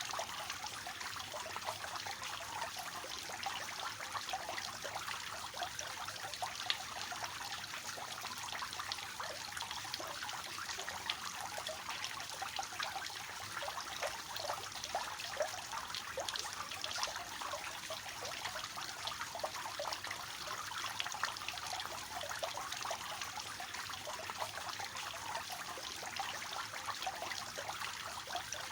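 Fountain water falling in a three-tier cascade and splashing into the pools below, a steady patter of small splashes.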